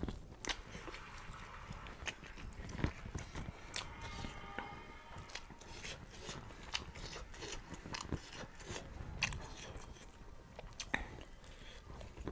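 Close-up eating sounds: a person biting and chewing roast duck meat pulled off the bone by hand, a stream of irregular sharp mouth clicks and smacks.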